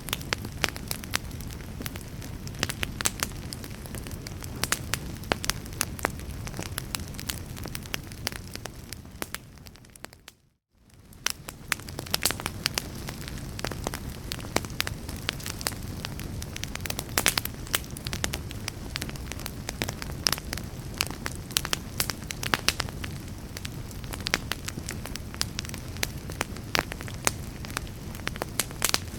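Wood fire crackling: a steady low rumble with many sharp, irregular snaps and pops. About ten seconds in, the sound fades down to near silence for under a second, then fades back up.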